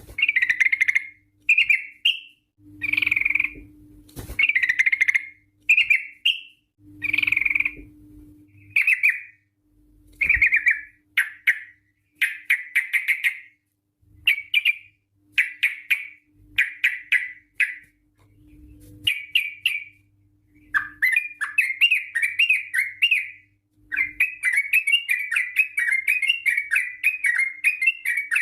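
Yellow-vented bulbul (trucukan) singing bright, bubbling phrases in repeated bursts of about a second, which run together in the last several seconds into one long, rapid warbling song.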